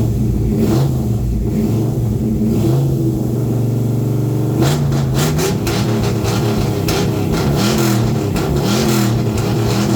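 1970 Chevrolet Chevelle's engine running at a steady idle, then blipped repeatedly from about halfway through, its pitch rising and falling with each rev.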